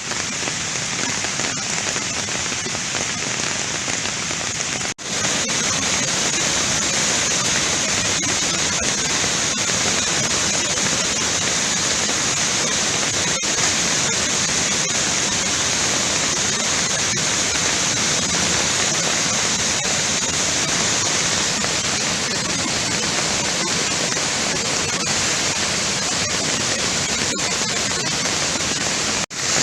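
Steady, loud wash of rushing water, broken by two brief cuts about five seconds in and near the end.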